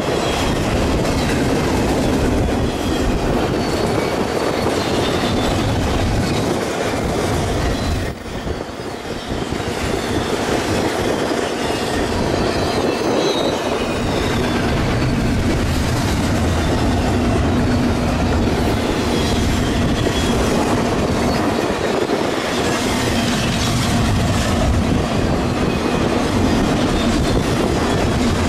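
Freight train rolling steadily past, a continuous rail rumble with faint high-pitched wheel squeal, dipping briefly about eight seconds in.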